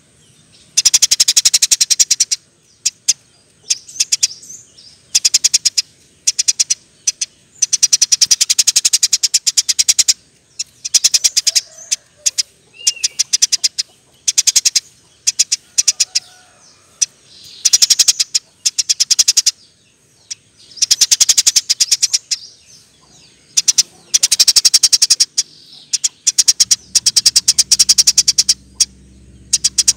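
Eurasian tree sparrow calling in loud bursts of rapid, high chirps, each burst lasting a second or two and repeated every few seconds. A faint low hum starts near the end.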